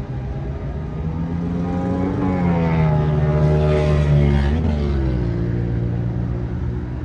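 Engine of a vehicle passing by: it swells, is loudest about four seconds in, and its pitch drops as it goes away.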